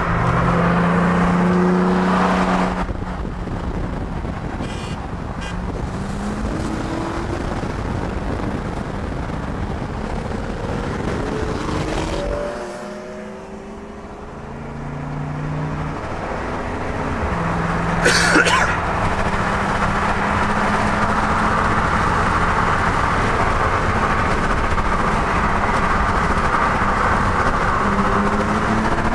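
Car engine pulling through the gears heard from inside a moving vehicle, its pitch climbing and dropping several times, with steady road and wind noise. It eases off about thirteen seconds in, and there is a brief sharp noise about eighteen seconds in.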